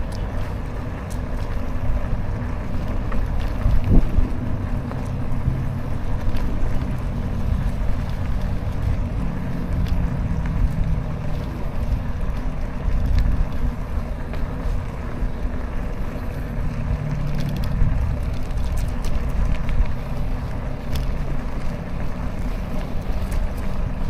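Wind buffeting an action camera's microphone while cycling, a steady low rumble with scattered light clicks.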